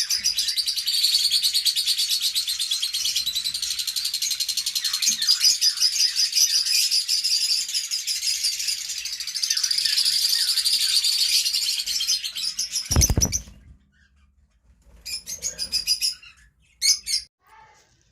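A flock of small parrots chattering in a dense, continuous mass of rapid high-pitched chirps. About 13 seconds in there is a thump, the chatter breaks off suddenly, and only a few scattered chirps follow.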